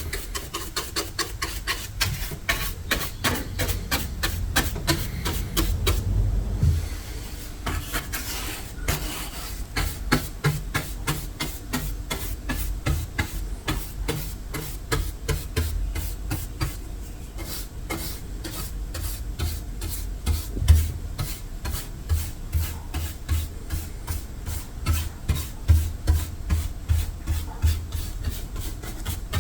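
Hand sanding or scraping strokes rasping across an old painted finish, stripping the paint: a steady, quick rhythm of several strokes a second, with soft low thuds under them.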